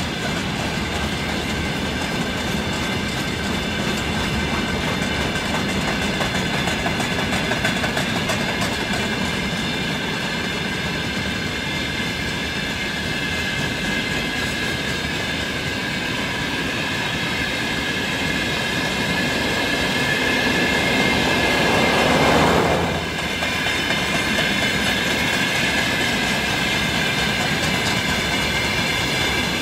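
Freight wagons rolling past: wheels clattering over rail joints under a steady rumble, with a continuous high-pitched squeal from the wheels. The noise swells about 22 seconds in, then drops sharply.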